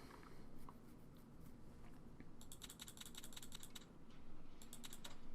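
Faint, rapid computer clicking in two runs: one about two and a half seconds in lasting about a second, and a shorter one near the end, over a low background hiss.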